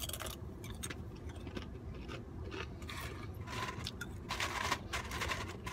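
Eating noises: crunching and chewing of food, with small clicks and scrapes, heaviest in the second half, over a low steady hum.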